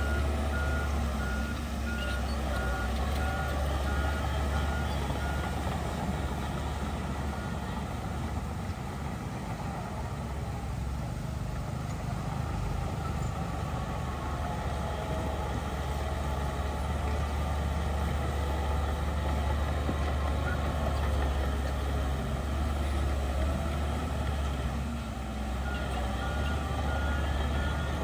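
Heavy diesel earthmoving machinery running steadily under load, with a reversing alarm beeping for the first few seconds and again near the end.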